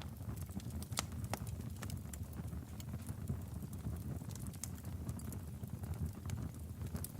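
Burning logs in a fireplace crackling: irregular sharp pops and snaps over a steady low rumble of the fire, with the sharpest pops about a second in.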